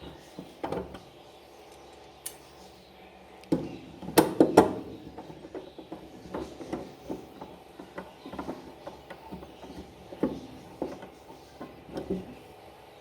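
Hand tools working on the washing machine's metal parts, most likely a wrench fitting the brake actuator: irregular clicks and clinks, with a cluster of louder knocks about four seconds in.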